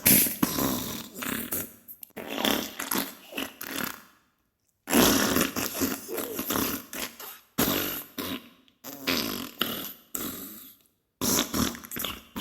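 Diarrhea sound effect: a run of wet, sputtering farts in bursts of a second or two, with two short silent gaps, one at about four seconds and one near the end.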